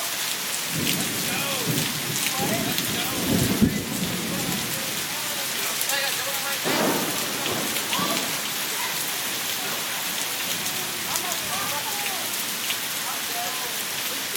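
Heavy rain falling and splashing in a steady hiss, with low rumbling swells from about one to four seconds in and again near seven seconds.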